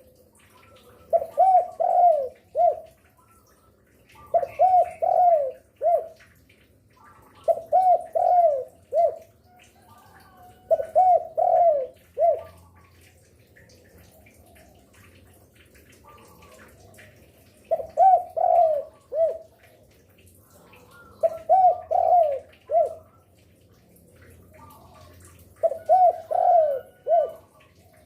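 Spotted dove (derkuku) cooing: about seven phrases of three or four quick coos each, repeated every few seconds with a longer pause midway. Faint higher chirps lie underneath.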